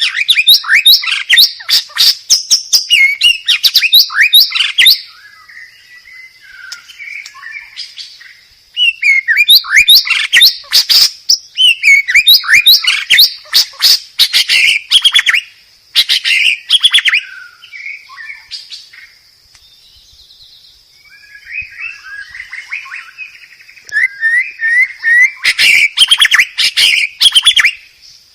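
White-rumped shama (murai batu) singing loud, rapid phrases of fast trills, sweeps and sharp notes. The loud phrases come in three stretches, near the start, from about nine to seventeen seconds in, and again near the end, with softer, scratchy chattering between them. A thin, steady high buzz runs behind the song.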